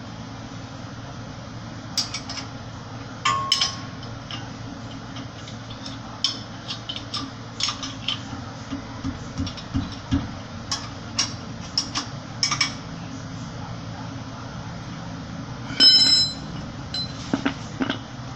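Metal tools and car parts clinking and clanking as they are handled, in irregular sharp knocks. The loudest is a ringing metallic clang about 16 seconds in. A steady low hum runs underneath.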